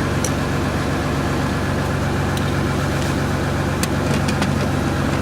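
Boat engine running steadily under way, a constant low hum, with a few faint clicks or ticks over it.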